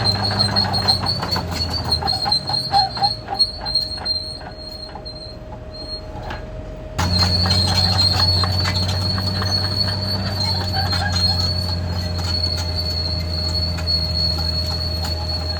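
Caterpillar D6R XL bulldozer working, its diesel engine running under a rapid clatter of steel track links and a steady high-pitched squeal from the tracks. The sound drops away for a few seconds near the middle, then comes back abruptly and louder about seven seconds in.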